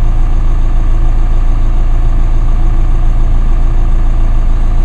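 2016 Chevrolet Colorado's 2.8-litre four-cylinder Duramax turbo diesel idling steadily after a warm start, heard from inside the cab.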